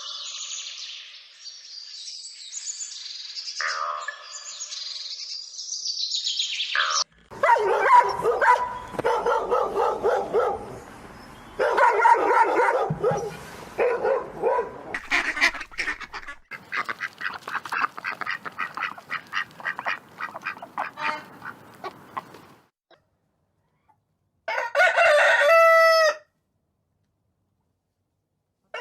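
A sequence of farmyard animal calls: high-pitched peeping for the first several seconds, then a loud, dense flock of poultry calls (geese, ducks and chickens) that fades out about two thirds of the way through. Near the end comes one short cat meow.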